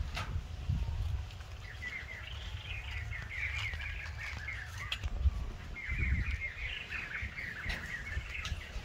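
A bird singing in two long runs of rapid chirps, with low knocks and thuds of handling underneath.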